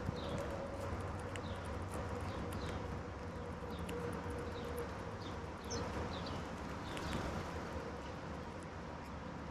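Short, high bird chirps scattered throughout, over a steady hum and a low rumble.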